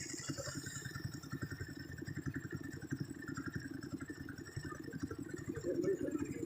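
A truck's diesel engine running steadily with a fast, even low pulsing.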